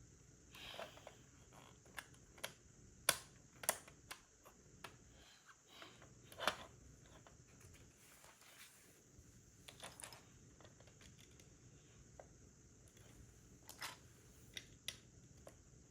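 LEGO plastic pieces being handled and pressed together: irregular clicks and taps, with a few louder snaps about three seconds in and again around six and a half seconds.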